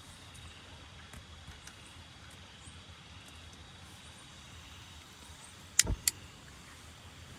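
Two sharp knocks in quick succession, about a third of a second apart, a little under six seconds in, over a faint steady background with scattered light ticks.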